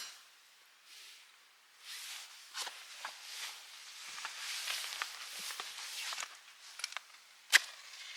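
Wood campfire crackling and popping over a light hiss, with scattered snaps and one loud sharp pop near the end.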